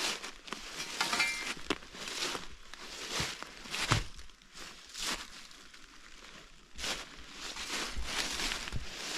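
Footsteps crunching and rustling through leaf litter and brush on a forest floor, about one step a second, with a short pause partway through.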